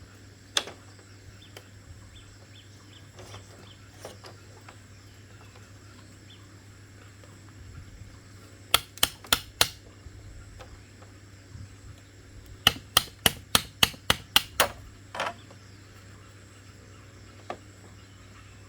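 Sharp knocks of a tool striking bamboo, in two quick runs: four blows about nine seconds in, then about nine faster blows, roughly five a second, a few seconds later, with single knocks before and after.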